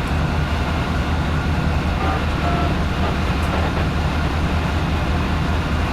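Steady low rumble of an idling train at the platform, unchanging throughout.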